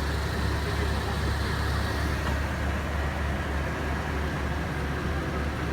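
A vehicle engine running steadily, a low hum with no change in pitch or level.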